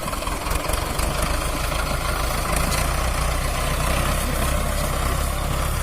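Mahindra four-cylinder diesel tractor engine running steadily, its low-end sound growing stronger about a second in.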